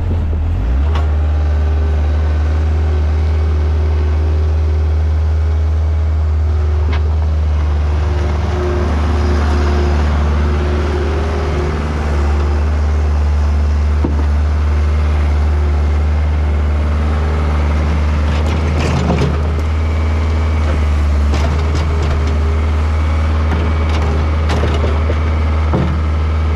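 Vehicle engine running steadily with a strong low hum, with a few short knocks and rattles in the second half.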